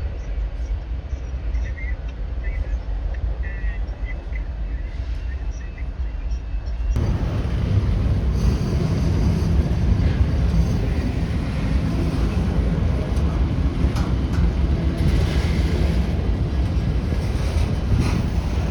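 Freight train rolling past with a steady low rumble. About seven seconds in, it turns suddenly louder and fuller.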